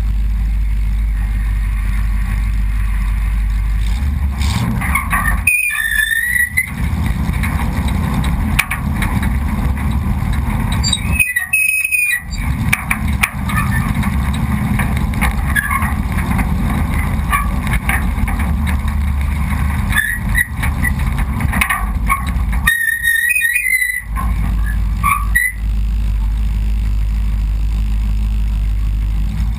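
Mud-racing truck engines running with a heavy, steady low rumble, broken by a few brief high squeals.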